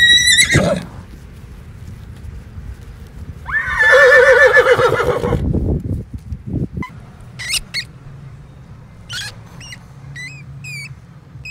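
Horse whinnying: a loud quavering call of about two seconds a few seconds in, after a shorter high call at the very start. A scatter of brief high chirps follows near the end.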